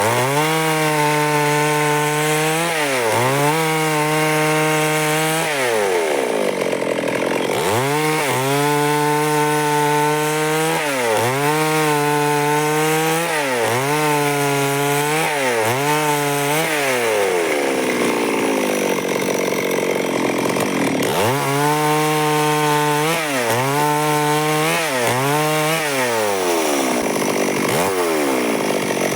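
Stihl two-stroke chainsaw cutting wood at high revs, its pitch dipping and recovering about once a second as the chain bites and the engine bogs under load. Twice the engine note sinks for a couple of seconds before picking up again.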